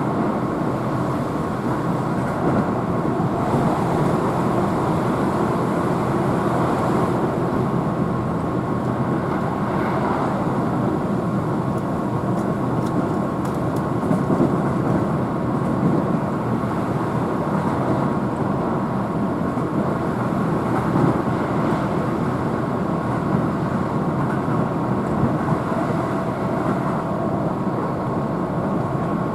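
Steady running noise of a Keihan Main Line electric train heard from inside the car at speed: wheels on rail and motor noise, with a faint steady high tone.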